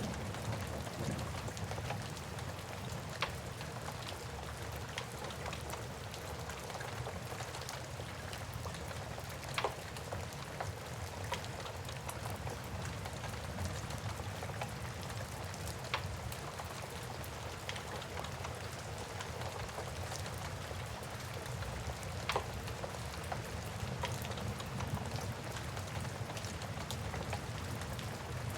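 Steady rain hiss with a low rumble, mixed with a wood fire crackling and a few sharp pops every six seconds or so.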